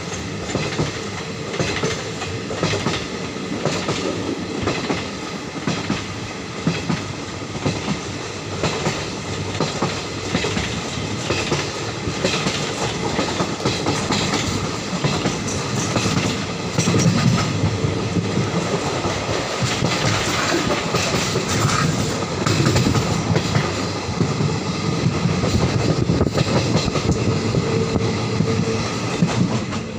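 Passenger train running at speed, heard from inside the coach at an open barred window: wheels clattering over the rail joints over a continuous rushing rumble, a little louder in the second half.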